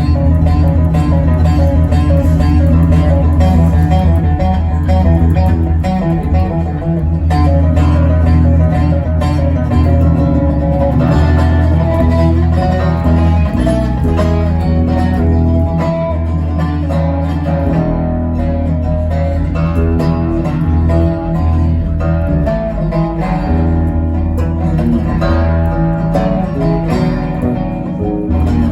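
A live band playing an instrumental passage with no singing, guitar to the fore over a heavy low end.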